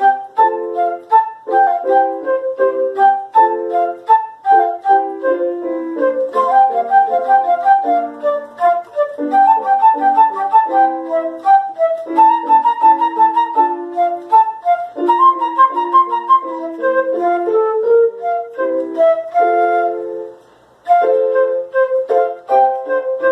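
Duet of two transverse flutes playing in quick, detached notes, both parts recorded by the same flutist and layered together. The music breaks off briefly near the end, then resumes.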